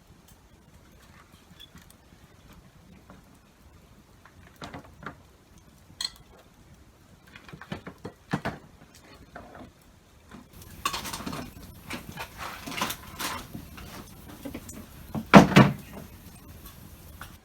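Scattered knocks and clinks of objects being handled, then from about ten and a half seconds in a steady hiss with clattering, and one loud knock near the end.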